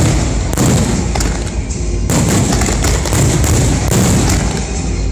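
A dense barrage of aerial firework shells bursting, with booms and crackling following one another without a break, and music underneath.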